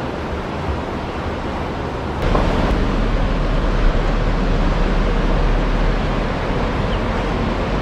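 Steady wash of ocean surf with wind. A deep wind rumble on the microphone comes in suddenly about two seconds in.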